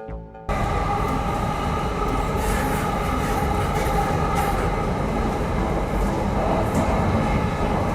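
Loud, steady rumbling vehicle noise with a few steady ringing tones over it, starting abruptly about half a second in.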